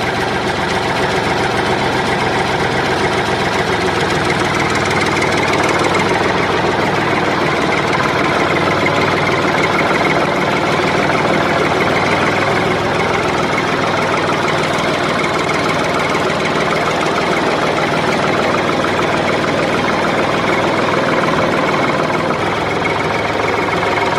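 An engine running steadily at idle with a fast knocking beat.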